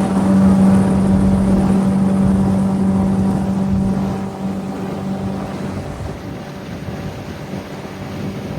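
Boat motor running steadily under way, a loud even hum that eases off about four seconds in.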